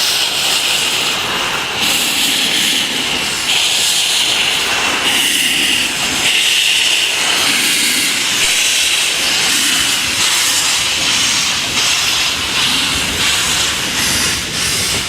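Narrow-gauge steam locomotive hissing steam: a loud, steady hiss that shifts in level every second or two.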